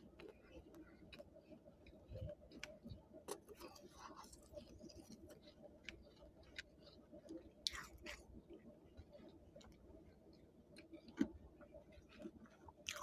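Someone chewing a mouthful of frost: soft, irregular crunches and crackles, with a sharper crunch about eight seconds in and another about eleven seconds in, over a faint steady hum.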